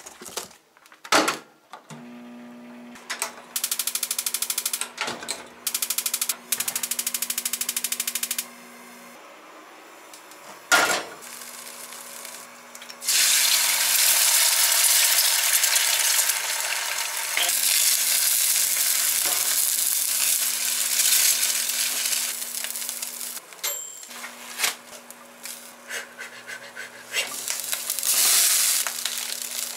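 Kimchi fried rice sizzling in a frying pan, starting about halfway through and continuing loudly, after a few knocks and clatters of kitchenware. A steady low hum runs underneath.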